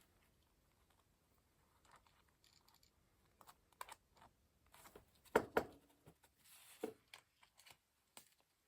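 Paper and small craft materials handled on a desk while a junk journal is finished: soft rustles, light scrapes and clicks, with a few louder taps and knocks around the middle.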